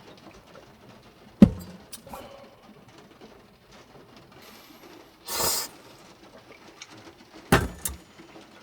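A sharp knock, a few light clicks, a short hiss, then another knock, over a faint steady background.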